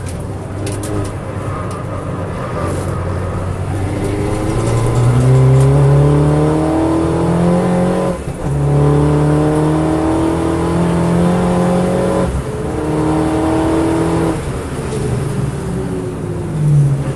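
MINI GP race car's engine heard from inside the cabin, accelerating hard out of a slow corner. It rises in pitch through the gears, with two upshifts about 8 and 12 seconds in. It then eases off near the end, with a short rev as the car brakes.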